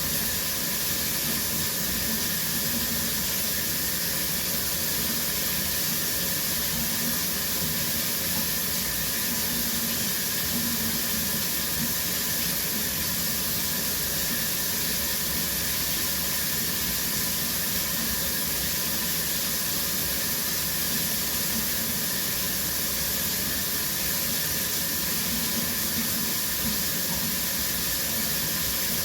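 Shower water spraying steadily: an even, unbroken hiss of running water.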